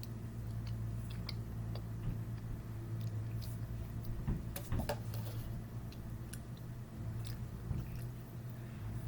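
Close-up chewing and mouth noises of someone eating, with scattered small clicks and a louder cluster about halfway through, over a steady low hum.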